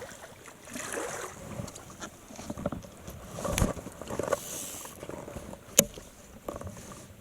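Water splashing and irregular knocks around a kayak, with one sharp click a little under six seconds in.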